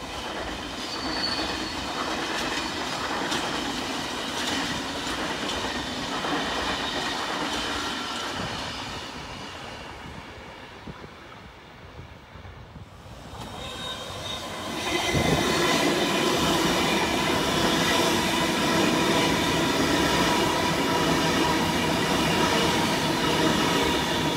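Sydney double-deck electric trains passing. First a train on the far tracks runs by and fades away. About fifteen seconds in, a K-set double-decker passes close, loud and steady, with a whine of several held tones from its wheels and motors.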